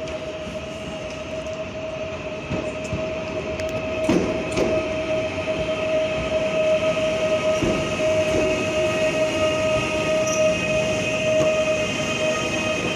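PESA Dart ED161 electric multiple unit running, with a steady whine over a rumble that grows louder over the first few seconds. A few knocks come about four seconds in.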